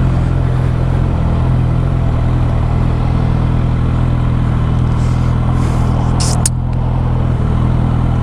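Suzuki GSX650F motorcycle's inline-four engine running steadily at low speed, with a few short hissing sounds about five to six and a half seconds in.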